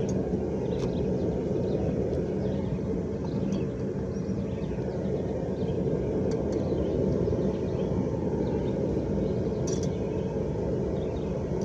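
A forge running with a steady, low rushing noise while metal heats in it, with a few faint clicks over the top.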